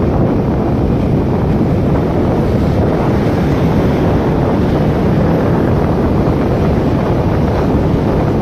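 Steady wind noise on the microphone while riding a motorcycle: a dense, even low rumble with no clear engine note.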